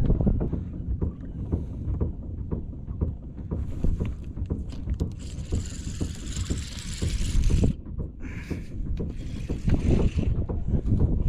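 Wind buffeting the camera microphone, with a constant low rumble, on a small fishing boat. Scattered clicks and knocks run through it, and a burst of hiss about five seconds in lasts a couple of seconds.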